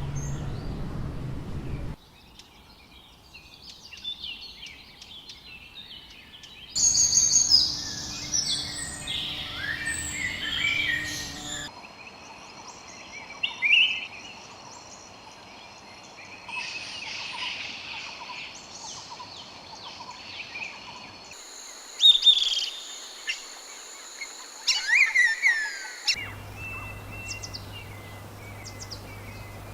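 Birds chirping and singing, a series of separate recordings joined by abrupt cuts about every few seconds, with different background hiss in each; the calls are short high chirps and whistles, loudest around 7 to 8 seconds in and again near 22 and 25 seconds.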